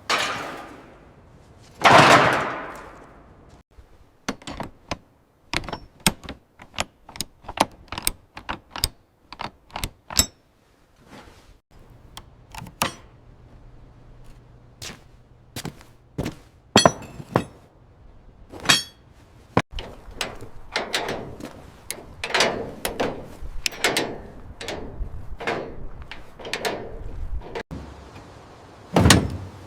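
Metal tools and parts knocking and clanking in irregular succession, some strikes ringing briefly, with a heavy clank about two seconds in that rings on for a moment.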